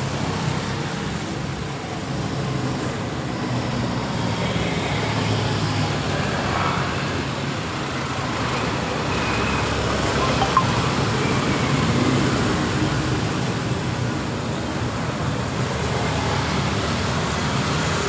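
Steady road traffic noise, vehicles running past, with a single sharp click about ten seconds in.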